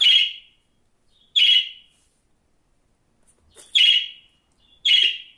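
Budgerigar giving four short chirps, separated by pauses of one to two seconds.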